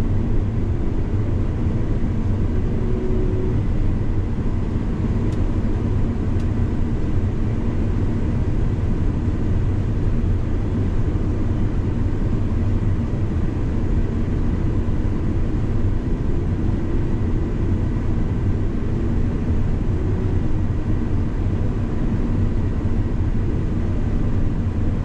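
Combine harvester running steadily while cutting soybeans: an even machine drone with a faint steady whine above it.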